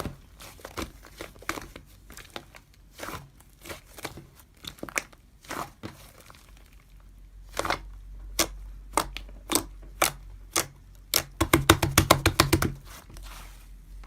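Slime being pressed and squished by hand, giving sharp, separate clicks and pops, with a quick run of pops near the end.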